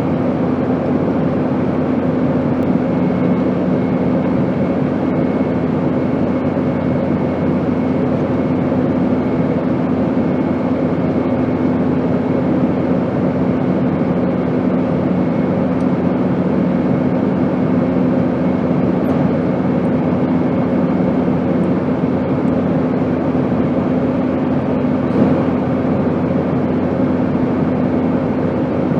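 Steady airplane drone: an even rush of noise with several constant humming tones underneath, unchanging throughout.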